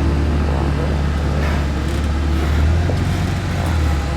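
Off-road vehicle engine running low and steady, a deep hum, with a slight swell about two-thirds of the way through.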